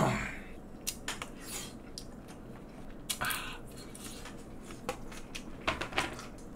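Someone eating: chewing, with scattered light clicks of disposable wooden chopsticks against plastic food containers.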